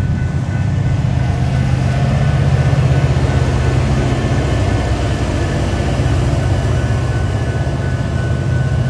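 Freight train rolling past a grade crossing: a loud, steady low rumble of wheels and railcars, with a thin steady high tone running alongside.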